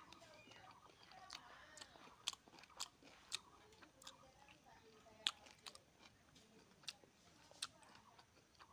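A man eating chicken and rice with his fingers: quiet chewing with wet mouth smacks and lip clicks, about six sharp ones spread through the moment.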